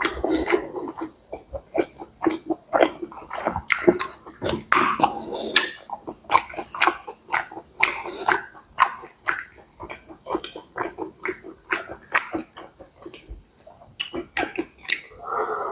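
Close-miked eating of pad see ew, stir-fried rice noodles with pork and Chinese kale: wet chewing and lip-smacking, a dense run of quick irregular clicks and squelches.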